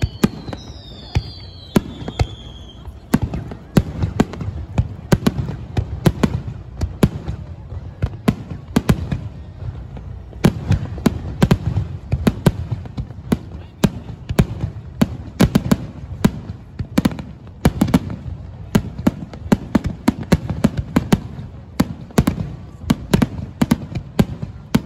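Aerial fireworks bursting in a dense barrage of sharp bangs and crackles, several a second, with low rumbling between them. A few falling whistles sound in the first couple of seconds.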